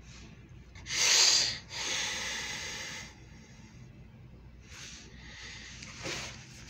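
A person breathing and snorting close to the microphone: a loud short snort about a second in, a longer exhale right after it, and softer breaths later.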